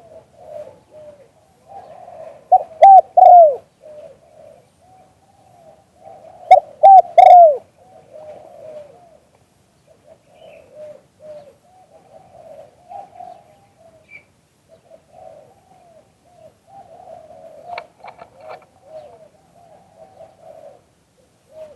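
Dove cooing: two loud bouts of short, quick, downward-falling coos about two and a half and six and a half seconds in, with softer cooing between and after them.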